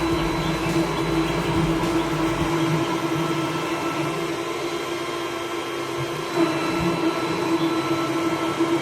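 Homemade waste oil burner running with a steady whirring hum from a small electric motor, typical of the air blower that feeds the burner. A low rumble underneath drops away about two and a half seconds in.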